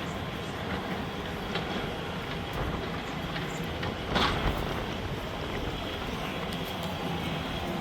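Wind buffeting the microphone as a steady low rumble and hiss, with one short, louder thump about four seconds in.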